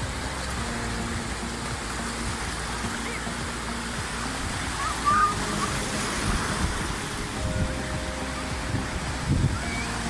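Beach ambience: a steady wash of sea surf under the faint voices of a crowded beach, with a brief high-pitched sound about five seconds in.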